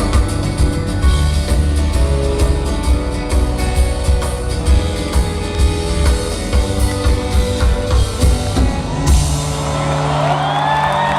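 Live rock band playing with drum kit, guitar and bass. The song ends about nine seconds in, and the crowd cheers and whistles.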